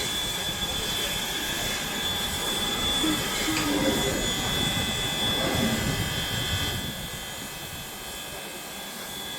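A steady engine rumble with a thin high whine above it, dropping away about seven seconds in.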